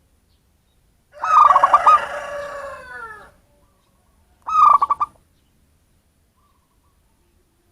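Zebra dove (perkutut) calling twice, each call a short, quick stutter of cooing notes: once about a second in and again about halfway through. The first call is overlapped by a longer, falling call from another bird with many harmonics, lasting about two seconds.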